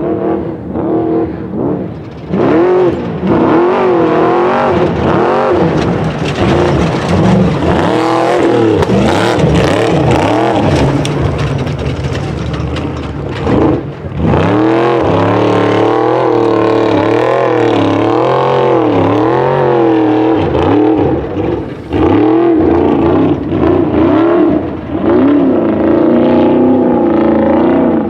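Off-road race truck engine revving up and down over and over, its pitch rising and falling every second or so as it is driven hard.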